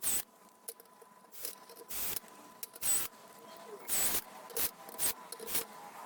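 Parts of a laser printer being handled and worked by hand: a string of sharp clicks and scrapes, about eight in six seconds, over a faint steady hum.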